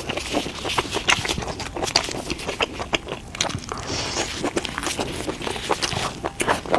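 Close-miked eating: an irregular run of crunchy bites and chewing clicks.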